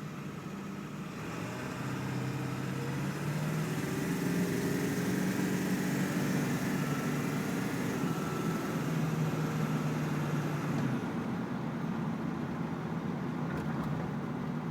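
2003 Ford F-250's 7.3-litre Power Stroke turbo diesel V8 accelerating under load, heard from inside the cab. The engine note rises in pitch, drops once as it shifts up near eight seconds in and climbs again, then eases off about eleven seconds in.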